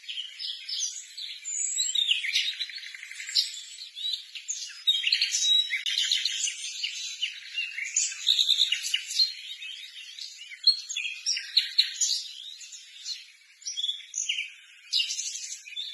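Small birds chirping continuously: a dense, busy run of short, high chirps with no pause.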